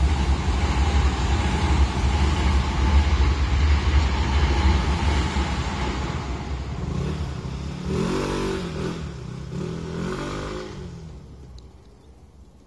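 Hankyu Kyoto Line train rumbling past a level crossing, then fading away. For about three seconds past the middle, a wavering engine sound rises and falls.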